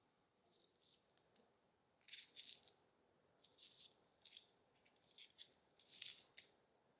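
A bunch of car keys jingling in a series of short, high-pitched shakes and jangles.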